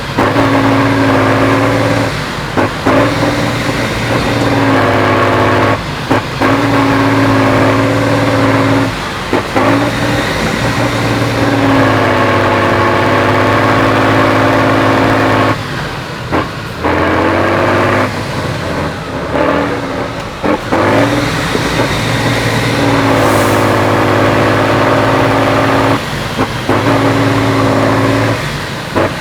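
Heavy off-road trial truck's diesel engine running at high revs under load as it climbs, the pitch held steady for several seconds at a time and dropping off briefly every few seconds.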